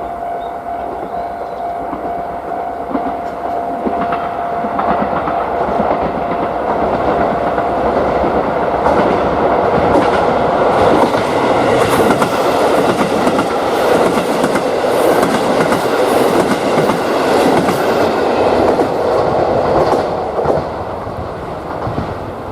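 A diesel train passing a level crossing, its wheels clacking rhythmically over the rail joints. It builds to its loudest through the middle and eases off near the end. The crossing's warning bell rings as a steady tone at first and is then drowned out by the train.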